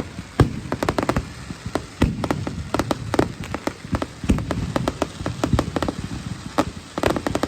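Fireworks going off in rapid succession: a dense crackle of many small bursts, with deeper booms among them.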